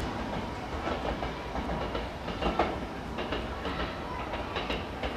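Semboku 12000 series electric train running toward the listener with a steady low rumble, its wheels clacking irregularly over rail joints and points, loudest about two and a half seconds in.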